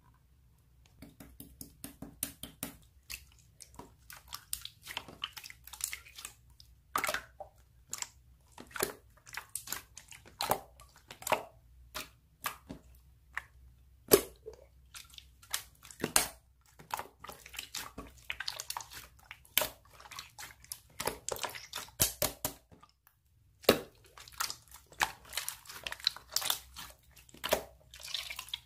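Slime being squeezed and poked by hand, making irregular wet clicks and pops, several a second, with a short pause near the end.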